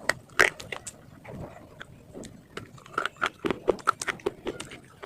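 Close-up chewing and biting of crunchy food: a run of sharp, irregular crunches, a few a second.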